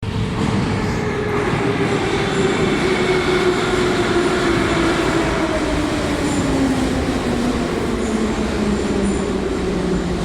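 Minsk metro car 81-714.5M running, heard from inside: a loud rumble of wheels on track under a motor whine that falls steadily in pitch as the train slows down.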